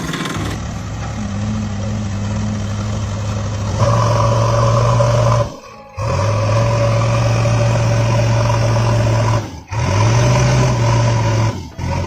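Vehicle engine running steadily with a low, even drone. It cuts out abruptly three times, at about five and a half, nine and a half and twelve seconds in, and each time resumes at once.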